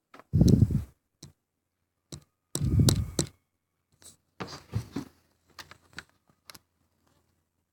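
Two loud, muffled thumps with a rustle, about half a second and two and a half seconds in, then a string of light clicks and taps.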